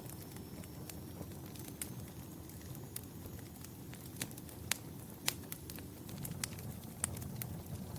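Fire in a fireplace crackling: a steady low rumble of flames with sharp, irregular pops and snaps every second or so.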